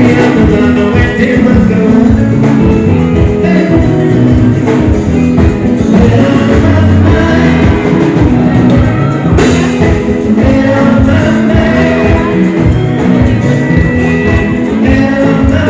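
Live band music with singing and a steady, driving beat, played loud through the stage sound system.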